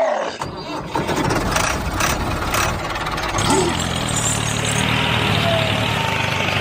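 A vehicle engine running, with a few sharp knocks in the first couple of seconds, settling into a steady low engine hum from about three seconds in.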